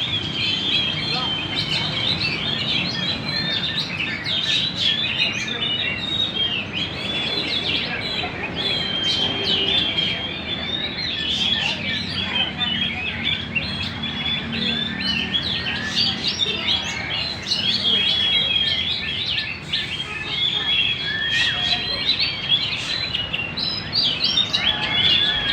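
A murai songbird (Copsychus) singing non-stop: a rapid, unbroken stream of chirps and trills mixed with short held whistles.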